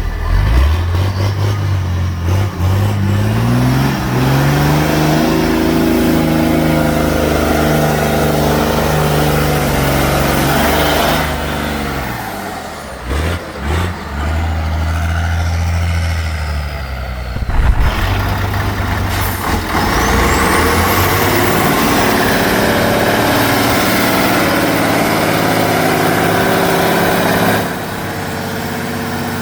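Heavy off-road truck engine revving up in the first few seconds and holding high revs under load, then dropping back, with a couple of abrupt breaks in the sound; afterwards it runs steadily again.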